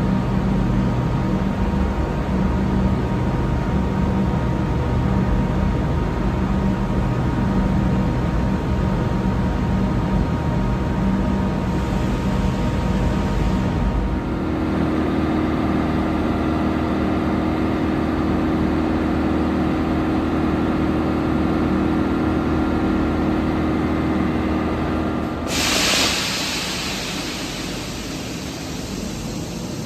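Train equipment running steadily in a station: a constant hum with a low drone, which changes about halfway through to a higher, steadier hum. Near the end it gives way to a sudden loud hiss that slowly fades.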